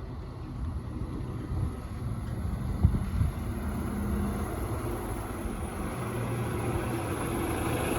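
Low, steady rumble of a passing vehicle, with a couple of sharp knocks about three seconds in.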